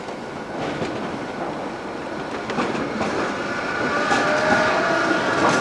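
Electric tram running on its rails, getting louder, with clicks over the rail joints and a steady whine coming in after about three seconds.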